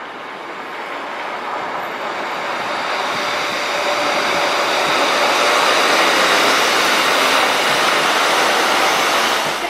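A train running through the station, its noise building steadily to a peak about two-thirds of the way in and then easing slightly.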